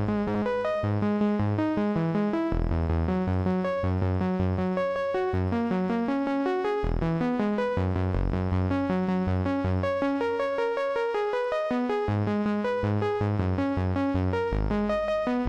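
Korg Prologue 16 synthesizer with its arpeggiator playing a fast stream of randomly ordered short notes over low sustained bass notes. The chord shifts every few seconds.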